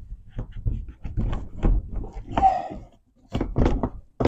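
Irregular knocks and thumps of a car's plastic inner door panel being tugged and worked loose by hand at its clips.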